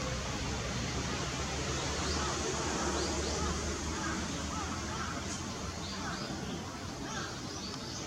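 Steady outdoor background noise with a low hum and faint distant voices. A few faint, short, high chirps of small birds come a couple of seconds in and again near the end.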